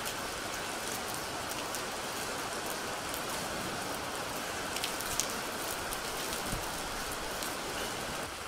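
Steady rain falling, with a few sharper drop clicks about five seconds in.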